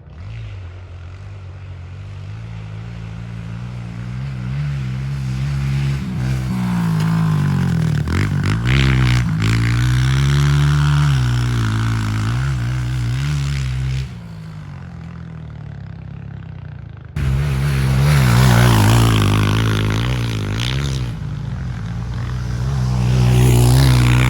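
Honda CRF125 pit bike's single-cylinder four-stroke engine revving as it is ridden off-road. It grows louder over the first several seconds and rises and falls in pitch with the throttle. It drops suddenly about halfway through and returns at full volume about three seconds later.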